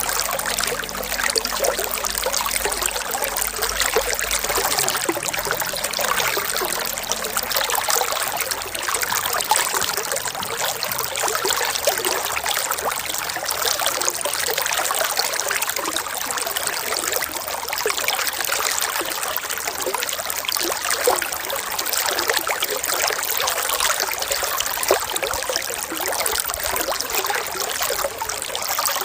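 Running water trickling steadily, like a small stream, with many small splashes and gurgles over a constant rush.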